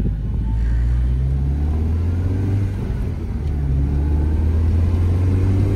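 Mini Cooper's four-cylinder engine and road noise heard inside the cabin on the move, a steady low rumble with the engine note rising and easing slightly.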